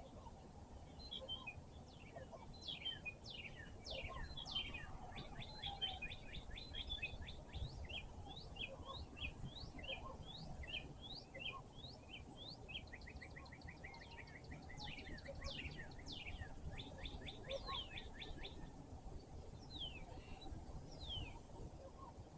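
Several songbirds singing and chirping together in a spring dawn chorus, with fast runs of quick, down-slurred notes and rapid trills over a faint low background rumble.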